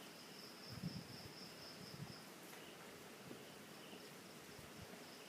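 Faint insects trilling steadily in a high, pulsing tone that drops out for about a second mid-way. A couple of low bumps come about one and two seconds in.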